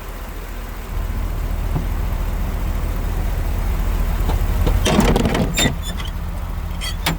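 Isuzu box truck's engine idling steadily, with a brief rattle and knocks about five seconds in and a click near the end.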